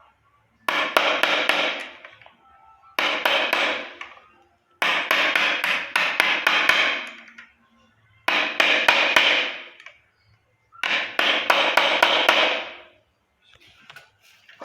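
A hammer tapping a new ball bearing into a wheelchair wheel hub to seat it. There are five bursts of quick blows, each a second or two long, with a metallic ring under the strikes.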